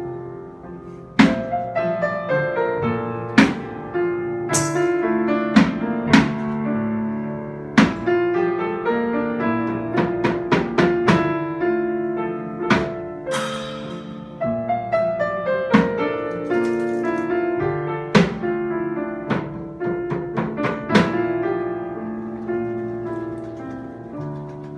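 Live instrumental music: piano playing a melody over chords, with sharp percussive knocks struck every second or two.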